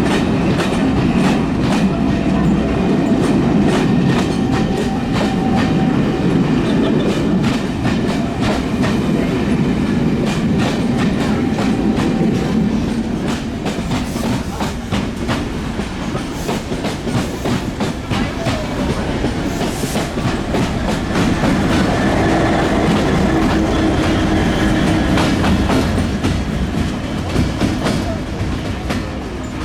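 A train passing close by, its wheels clicking rapidly over the rail joints above a steady rumble.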